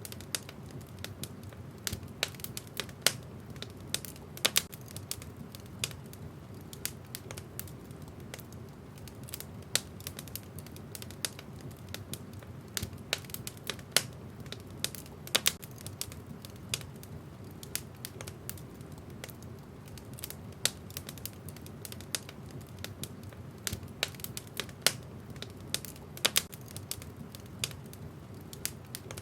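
Wood fire burning in a fireplace: logs crackling with irregular sharp pops, some much louder than others, over a steady low rumble of the flames.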